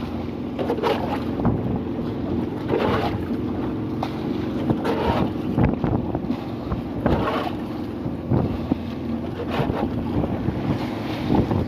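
Fishing pirogue at sea: a steady low droning hum under wind buffeting the microphone, with short splashes or knocks about every second or so.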